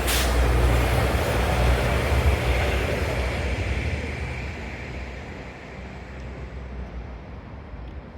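Class 195 diesel multiple unit passing close by, with engine rumble and wheel-on-rail noise. It is loudest in the first three seconds, with a sharp burst right at the start, then fades away as the train recedes.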